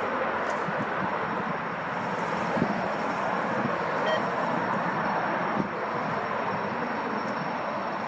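Jet airliner engines heard from the airfield perimeter: a steady, even rushing noise with no change in pitch.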